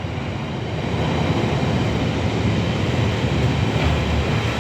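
Train running through the station with a steady low rumble.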